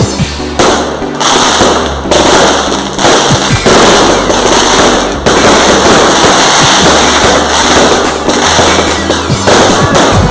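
Fireworks going off in a dense run of crackles and sharp bangs, with loud music with a heavy bass line playing at the same time.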